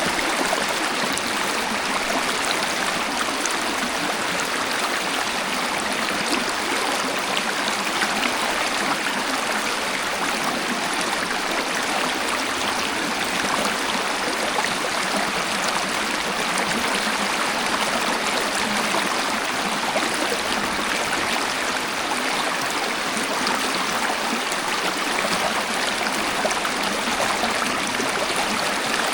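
Waterfall: water rushing steadily with an even, unbroken splash, and no deep rumble.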